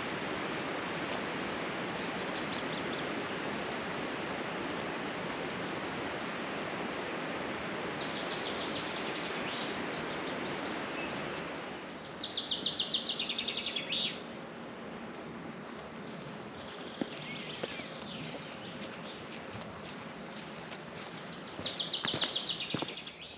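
A songbird singing short high trilled phrases, four times, over a steady rushing noise that drops about halfway.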